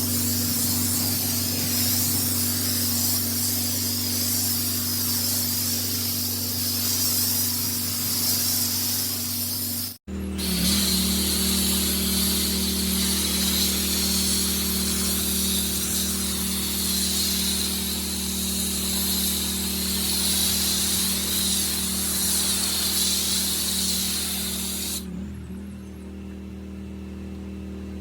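Pressure washer running, its high-pressure water jet hissing steadily onto brick paving over the machine's steady hum. The sound drops out for a moment about ten seconds in, and near the end the spray stops while the machine keeps running.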